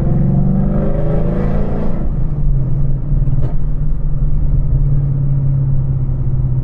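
Ford Mustang GT's 5.0 L V8 exhaust through longtube headers, its pitch rising under throttle for about two seconds, then settling into a steady low drone while cruising.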